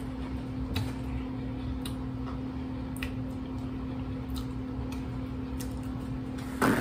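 Soft wet chewing and mouth sounds of a person eating a sauce-coated boiled egg, with faint scattered clicks about once a second over a steady low hum. A brief louder sound comes near the end.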